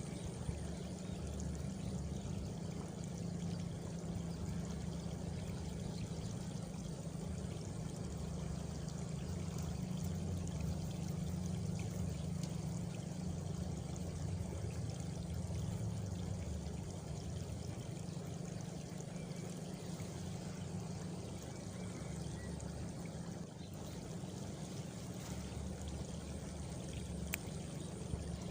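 Water running steadily, a continuous trickling flow with a low rumble underneath.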